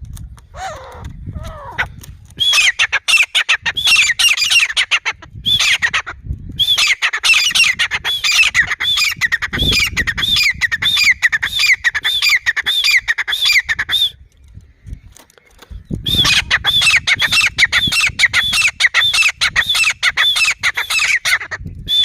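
Grey francolin calling in three long bouts of rapid, repeated high notes, with short pauses between the bouts. A few lower, falling calls come in the first two seconds.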